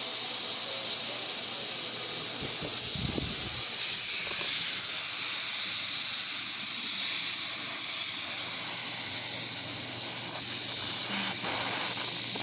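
High-pressure air hissing steadily out of the Tuxing TUXD11 compressor's opened bleed valve, purging the condensed water collected in its moisture separator after a fill.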